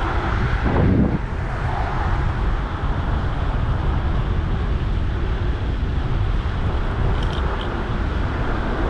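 Steady rush of wind on the microphone of a moving bicycle, mixed with street traffic noise.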